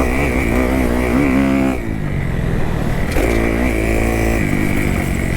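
2018 Kawasaki KX250F's single-cylinder four-stroke engine revving while riding the track, its pitch climbing, falling away just under two seconds in, then climbing again about three seconds in.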